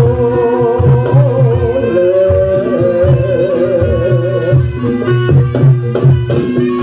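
Live Javanese barongan accompaniment music: drums beating a steady rhythm under a wavering melody line that stops about four and a half seconds in, leaving the drums and sharp percussion strikes.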